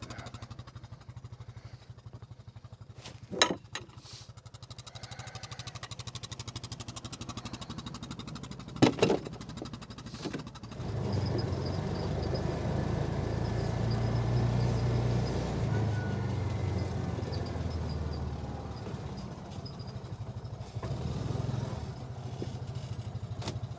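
Side-by-side utility vehicle's engine running steadily, then getting louder about eleven seconds in as it pulls away. A couple of sharp knocks sound before that, one about three seconds in and one near nine seconds.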